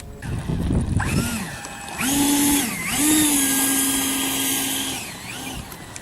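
Electric motor and propeller of a model airplane whining as the throttle is run up. The pitch dips briefly, holds steady, then winds down about five seconds in.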